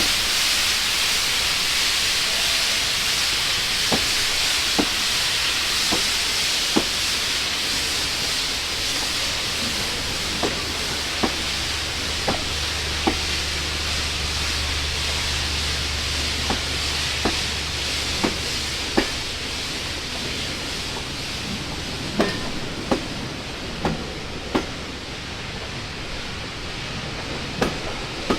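Steam locomotive hissing loudly, the hiss slowly fading, with a string of sharp clicks, often in pairs, every second or so as train wheels pass over rail joints.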